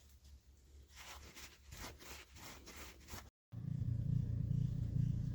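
A quick series of short scraping strokes, then, after an abrupt cut, a steady low hum.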